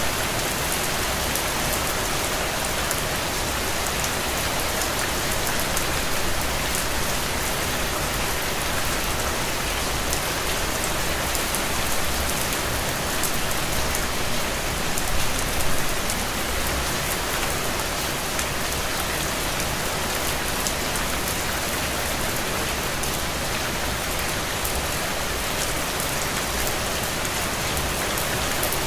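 Steady rain falling on a window, a dense even hiss with individual drops ticking through it.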